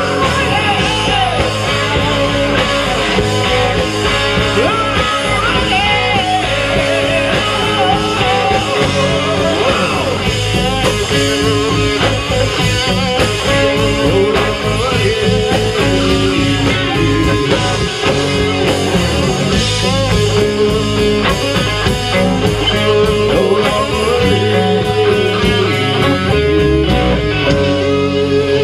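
Live rock band playing loudly, with electric guitar and drums and a singer's voice over the music.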